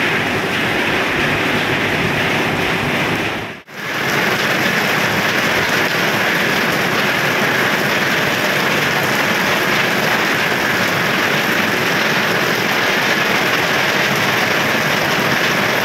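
Steady rain falling, a dense even hiss that cuts out for an instant about four seconds in.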